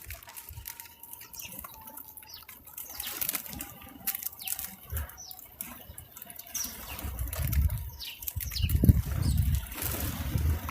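Outdoor backyard ambience at a feeder: scattered light clicks and taps with a few short high chirps, then low rumbling gusts of wind on the microphone over the last few seconds.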